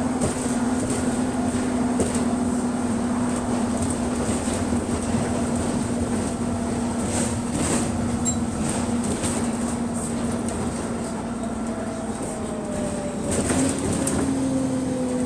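City bus engine and drivetrain running while the bus is under way, heard from inside the passenger cabin: a steady drone with a held tone, and a second whine that slowly falls in pitch during the second half. The bus has an exhaust leak. A few short rattles or knocks come through, around the middle and again near the end.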